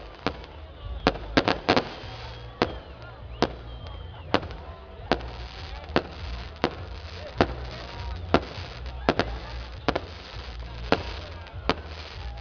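Fireworks display: a long string of sharp bangs from aerial fireworks bursting, irregular, about one every half second to second, with a quick cluster of bangs about one to two seconds in.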